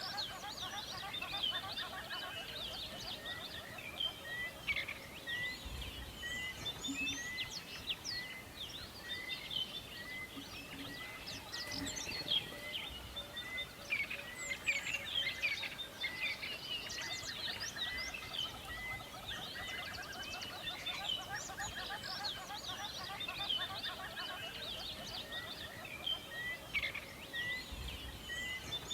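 Many songbirds singing and calling at once, a dense chorus of chirps, trills and whistled notes over a faint background hiss. One bird repeats the same short note at a steady pace, a little more than once a second.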